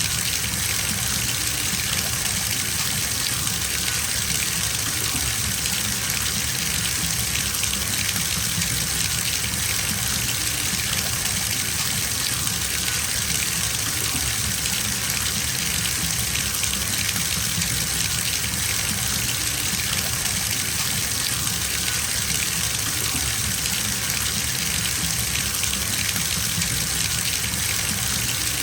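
Water gushing steadily from a bathtub tap into a filling tub, an even unbroken rush.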